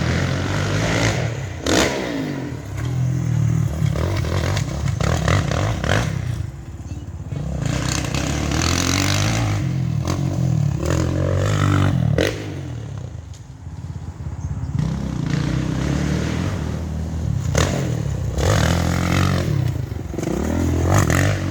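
Dirt bike engine being ridden hard, revving up and easing off again and again as the throttle opens and closes, dropping away briefly about two-thirds of the way through.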